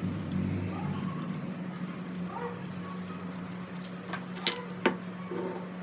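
Small metal parts clinking twice, sharply, near the end, over a steady low hum.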